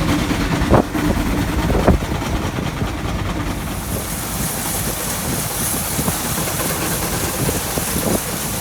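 Heavy farm machinery running with a steady low rumble and a couple of knocks early on. A steady high hiss joins in about three and a half seconds in.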